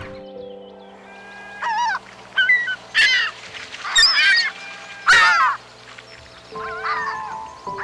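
About six loud animal calls, each a short cry that bends up and down in pitch, over steady background music.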